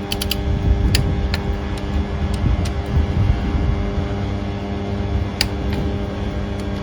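Scattered sharp metallic clicks and clinks of tools and parts being handled, over a steady hum.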